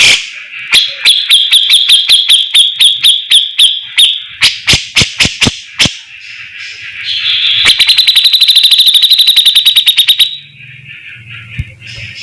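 A songbird singing loudly: a quick series of sharp high notes, a few separate clicks about halfway, then a fast rattling trill lasting a couple of seconds. It is a masteran recording used to teach caged birds this song.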